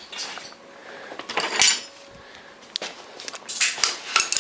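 Metal hand tools and sockets clinking and clattering in short bursts, about a second and a half in and again near the end.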